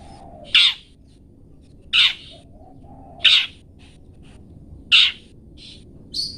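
Long-tailed shrike (cendet) giving short, harsh 'toet toet' calls, five in a row, about one every one and a half seconds, with faint high chirps in between.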